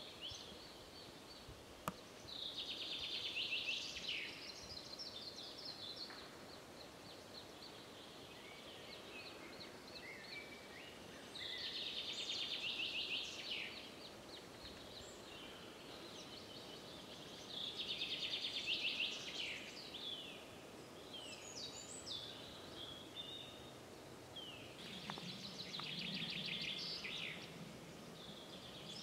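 A songbird singing a short, rapid trilled phrase four times, roughly every six to eight seconds, over steady faint background noise. A single sharp click comes about two seconds in.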